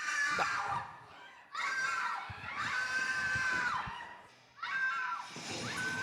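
Three long, high-pitched screams, each held steady for one to two seconds and falling away at the end, with short gaps between.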